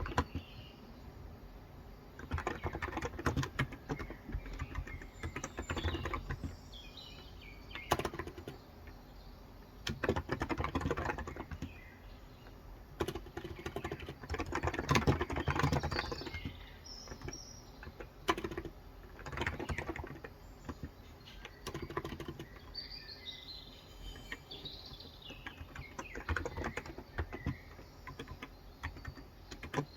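Typing on a Cox Endeavour tenkeyless keyboard with 35 g electrostatic capacitive (contactless) switches: runs of keystrokes a second or two long separated by short pauses. Birds chirp faintly in the background several times.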